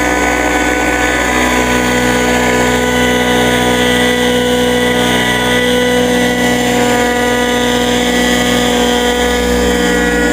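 The AS90's replacement engine running steadily at a constant speed through its new muffler, with no popping or backfiring, near the end of its break-in.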